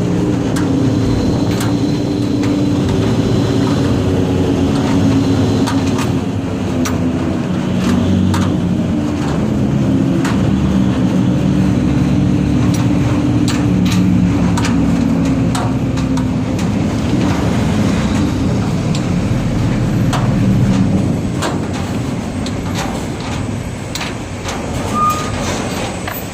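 Hino truck's diesel engine running steadily, its pitch drifting slightly, with scattered sharp clicks; it grows somewhat quieter in the last few seconds.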